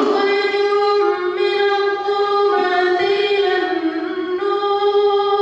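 A man's voice in melodic Quran recitation (tartil), holding one long drawn-out vowel without a break and moving it through several ornamented pitch steps.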